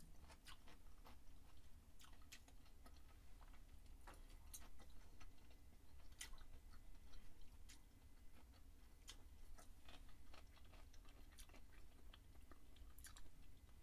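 Faint chewing of a chicken and lettuce wrap in a flour tortilla, heard as small, irregular clicks and crunches close to the microphone.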